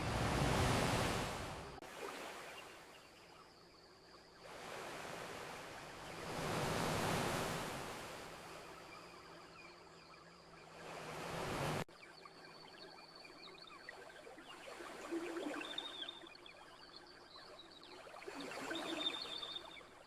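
Ocean surf washing onto a shore in slow swells that rise and fall every few seconds, the loudest near the start. About twelve seconds in, a swell cuts off abruptly. The rest is quieter, with a faint high tone now and then.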